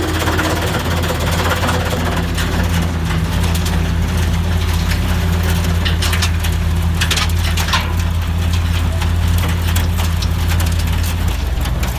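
Heavy engine of a front-loader snowblower rig running steadily with a low, even drone. A few sharp crackles come about six to eight seconds in, and the drone changes slightly near the end.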